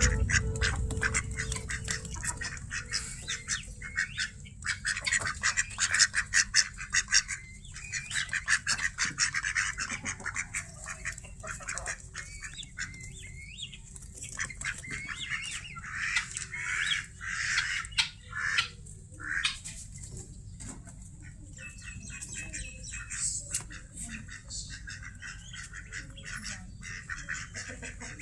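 Lovebirds chattering and squawking in quick, irregular runs of short, sharp calls.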